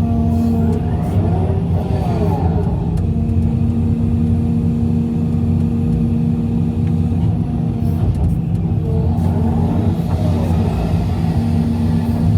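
Heavy diesel machinery running steadily at work, with a deep engine hum and a couple of brief wavering rises and falls in pitch, around two seconds in and again near the ten-second mark.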